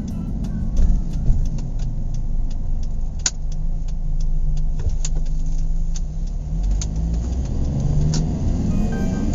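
A car being driven: a steady low rumble of engine and road noise, with scattered light clicks.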